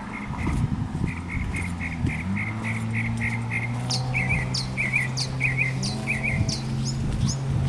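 Songbirds singing: a quick run of short chirps, then a repeated whistled note that drops sharply in pitch, about twice a second. A steady low hum comes in about two seconds in, under soft footsteps.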